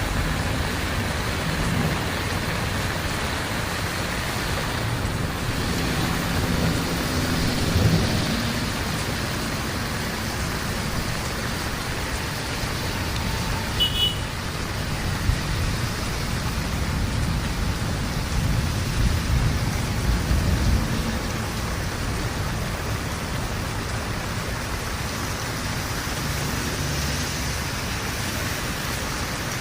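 Heavy rain falling steadily in a dense hiss. Deeper rumbles swell about a quarter of the way in and again about two-thirds through, and there is a brief high chirp near the middle.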